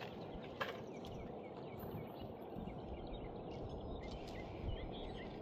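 Faint outdoor background noise, a low steady rumble, with scattered faint high chirps and a single click about half a second in.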